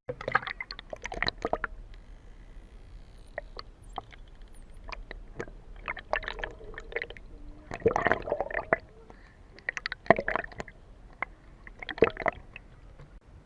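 Water bubbling and sloshing close to the microphone in irregular bursts of crackling clicks, with a few faint high gliding whistles about three seconds in.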